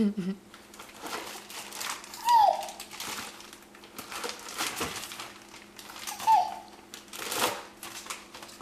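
Irregular crinkling and rustling as a toddler rummages through a drawer and pulls things out, with two short falling squeals of baby babble.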